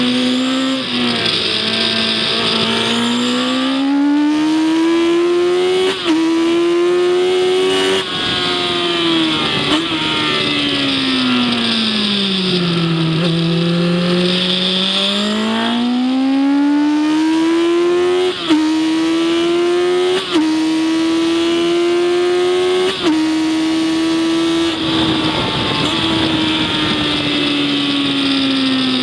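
Race vehicle's engine heard on board at speed on a circuit. The revs climb steadily and drop sharply at each quick gear change, several times. In the middle the revs sink slowly and rise again through a corner. Wind and road hiss run underneath.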